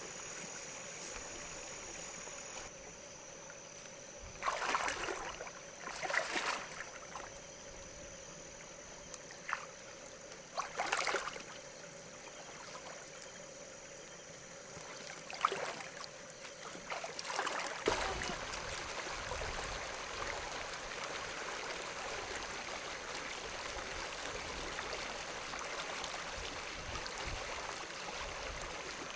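Water splashing in short bursts several times, then a steady rush of running water from about a third of the way in.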